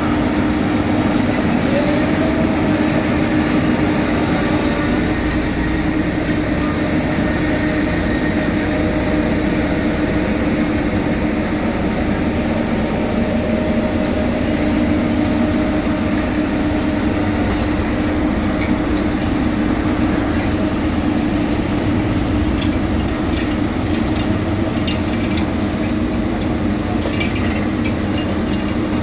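Heavy diesel road-paving machinery running steadily with a constant droning hum, a few light metallic clicks near the end.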